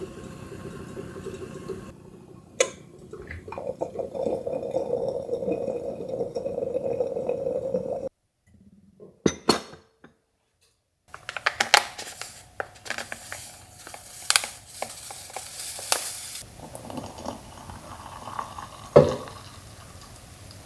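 Dishes and kitchen utensils clinking and clattering, with sharp knocks and a short near-silent break about eight seconds in.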